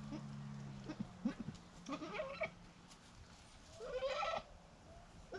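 Goat bleating twice, short wavering calls about two seconds apart, over a low steady hum that stops about a second in.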